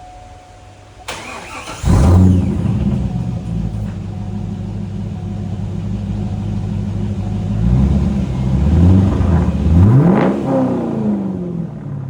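2001 C5 Corvette's V8 with a Billy Boat exhaust being started: the starter cranks briefly, the engine catches with a loud flare about two seconds in and settles to a steady idle. Near the end it is revved, the pitch rising and then falling back to idle.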